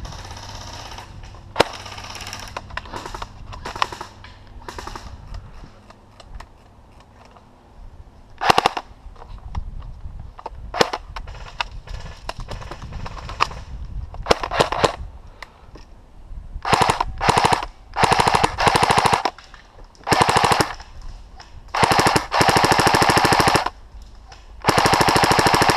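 Airsoft rifle firing on full auto: a few scattered shots and short bursts early on, then several long bursts of rapid, evenly spaced shots in the last ten seconds.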